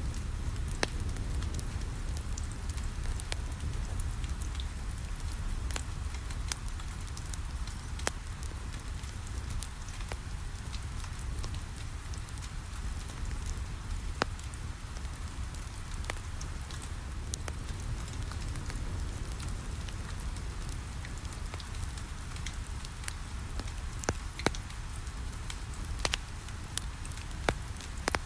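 Steady rain pattering on a window, with a low rumble underneath, mixed with a wood fire crackling: irregular sharp pops throughout, a few louder ones near the end.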